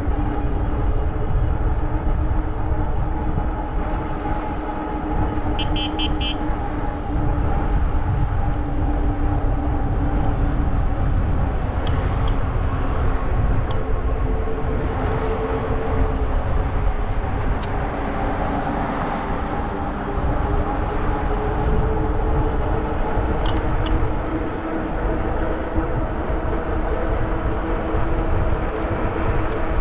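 Fat-tire e-bike riding on a trail: heavy wind rumble on the bike-mounted microphone over a steady hum from the 4-inch fat tires and drive that drifts slightly in pitch with speed. A short burst of rapid ticking comes about six seconds in.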